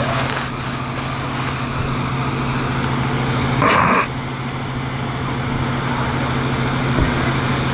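A vehicle engine idling with a steady low hum, and a brief loud high-pitched sound about three and a half seconds in.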